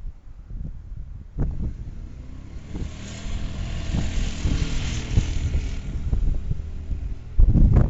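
Wind of a dust storm buffeting the microphone with a steady low rumble. A vehicle engine swells and fades as it passes a few seconds in. A heavy gust hits near the end.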